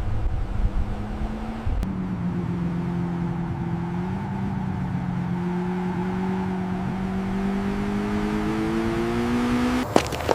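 A motor running with a steady hum whose pitch slowly rises. It cuts off abruptly near the end, followed by a couple of sharp clicks.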